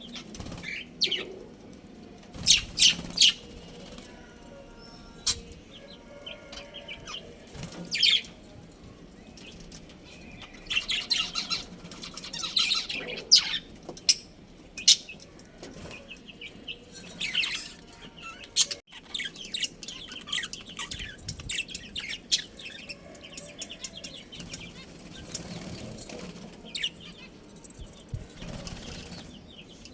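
Budgerigars chirping and twittering in scattered bursts, with short sharp flutters between the calls.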